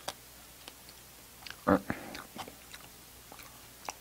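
Close-miked mouth sounds of eating a soft pastry. A loud bite or smack comes a little under two seconds in, and chewing with small wet clicks runs around it.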